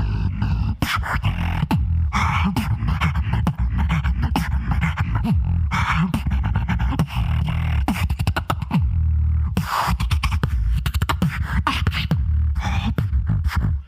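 A solo beatboxer performing a beat: a continuous deep bass line under dense rapid clicks and snare-like hits, with a few longer hissing sweeps about two, six and ten seconds in.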